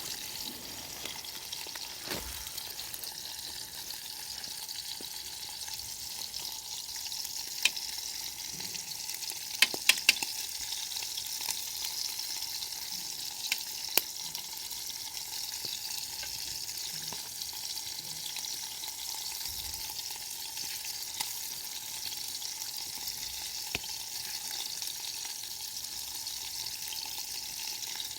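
Steady sizzling hiss of food cooking over a campfire, with a handful of sharp cracks, a few of them close together near the middle.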